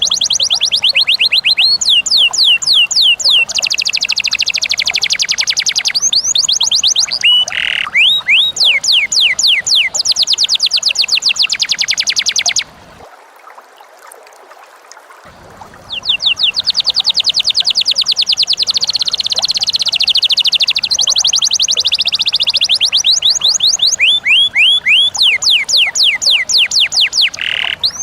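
A cage bird calling in long runs of fast, shrill, evenly repeated chirps, about ten a second, that stop for a couple of seconds near the middle and then start again.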